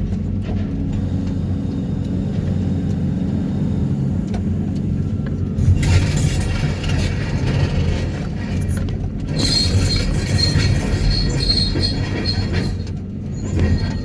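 Excavator running a vibro hammer while sheet piles are pulled: a steady low engine hum, then louder machine noise joining about six seconds in, with a high whine from about nine seconds.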